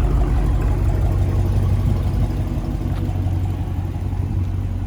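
2020 widebody Dodge Challenger's V8 running through a mid-muffler-delete exhaust: a steady low rumble that slowly fades.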